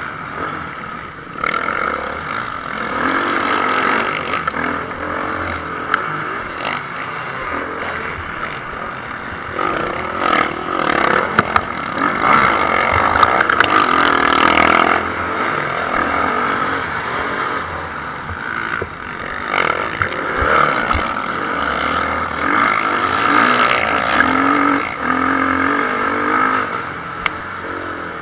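Motocross bikes racing on the track, their engines revving up and down as riders pass. The engines are loudest about ten to fifteen seconds in, with a second swell later.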